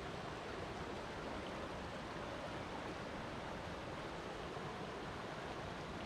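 Flowing water rushing steadily, a continuous even hiss with no breaks or distinct splashes.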